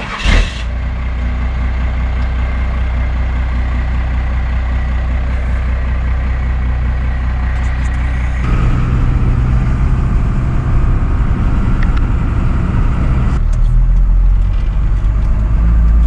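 Diesel engine of a first-generation Cummins pickup running steadily, with a sudden loud hit at the very start. Its sound shifts about eight and a half seconds in and again a few seconds before the end.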